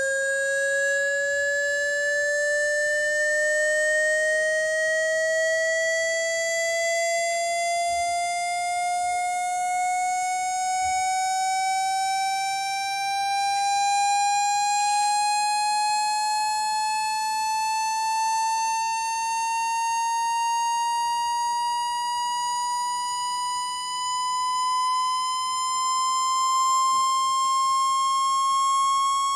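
Electronic test tone with overtones, rising slowly and evenly in pitch by about an octave: a sweep tone played to shake water out of a phone's speaker.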